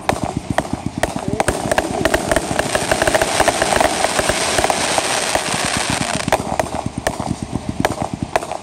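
Ground-level fireworks going off: a dense, rapid crackling of many small pops, thickest in the middle, with a few louder single cracks.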